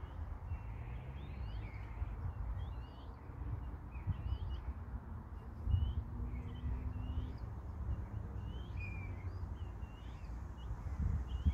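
Small birds chirping and singing, a run of short, quick, twisting notes, over a low uneven rumble.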